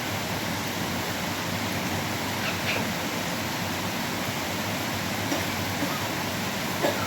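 Steady rushing noise of running water, with a few brief faint sounds over it, the clearest near the end.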